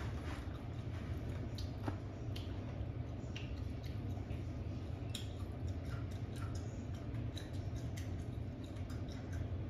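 Scattered small clicks and wet mouth sounds of a person chewing pieces of lime and picking them out of a glass bowl, over a steady low hum.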